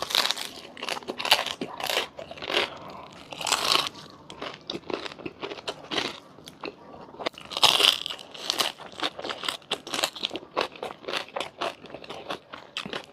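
Close-miked crunching and chewing of crisp food: a few loud crunchy bites followed by rapid, irregular crackling chews.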